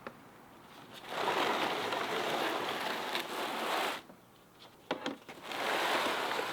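A sheet of cardboard scraping across the floor as it is slid under a car: two stretches of steady scraping, one lasting about three seconds and another starting about five and a half seconds in, with a few light knocks between them.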